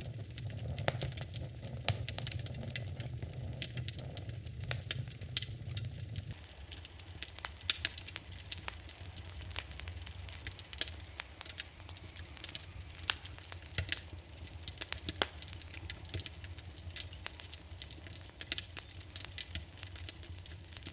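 Wood fire in a fireplace crackling, with frequent irregular sharp pops and snaps over a steady low rumble of the flames. The low rumble changes abruptly about six seconds in.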